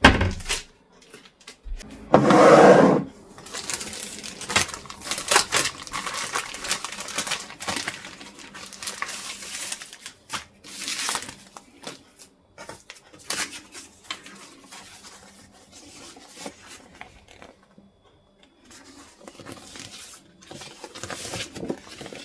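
Close-up handling noises: scattered clicks, knocks and rustles, with a louder rush about two seconds in.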